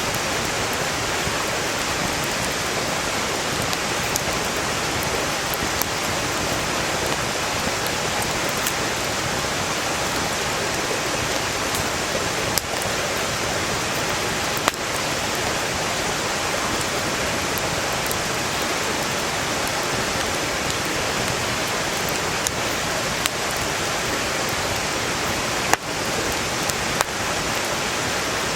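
Steady rushing of a mountain stream flowing close by, with a few sharp pops from a burning wood campfire now and then.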